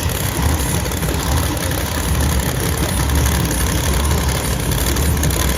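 Monster truck engine running loud during an arena run, its low rumble swelling and easing every second or so.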